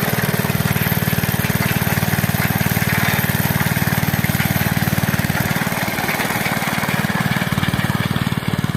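Homebuilt Indian motorcycle engine running steadily with a fast, even exhaust beat.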